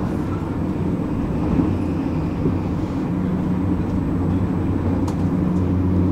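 Commuter train running, heard from inside the carriage: a steady low hum over rumbling wheel and rail noise, with a single light click about five seconds in.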